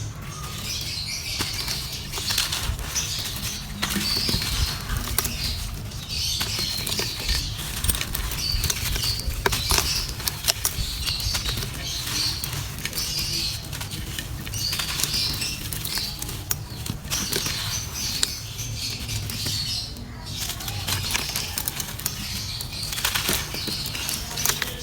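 Dry clay crumbling in a clay pot under the fingers. It is a continuous crisp crackling and crunching that comes in repeated gritty bursts, with scattered sharp snaps, over a low steady rumble.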